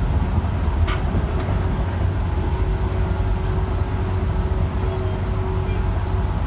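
Cabin noise of a JR 115-series electric multiple unit running at speed: a steady low rumble of wheels on rail with a faint steady hum, and a single short click about a second in.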